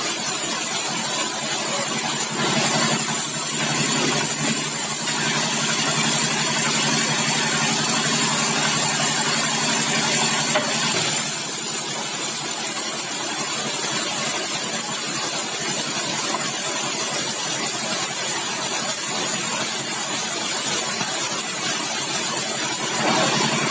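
Sawmill machinery running steadily: a continuous engine-like hum under a dense mechanical noise. The pitched hum is clearest in the first half.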